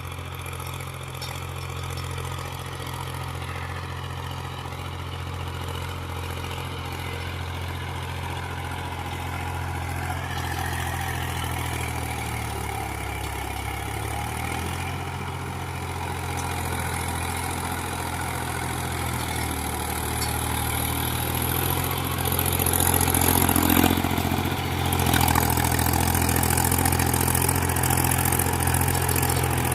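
Mahindra 265 tractor's three-cylinder diesel engine running steadily, its note dipping twice in the middle and getting louder near the end.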